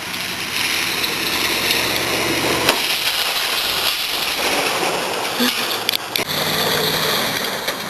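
A 1994 Dodge Ram 1500's 5.9-litre V8 running hard while the truck spins its tyres and slides on gravel, with a continuous hiss of tyre and gravel noise. The engine note changes about a third of the way in, and there are a couple of sharp knocks a little after the middle.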